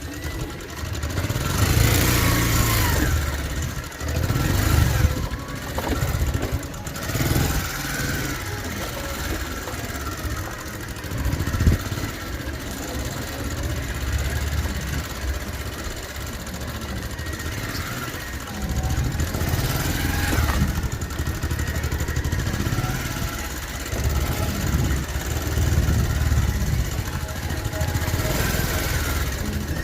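Motorcycle engine running, its revs rising and falling several times as it rides, with a rushing noise over it.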